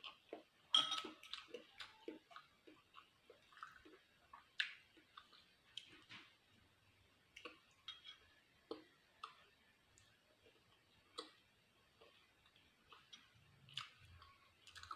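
Close-up eating sounds: a person chewing food, with soft irregular mouth clicks and smacks a few times a second.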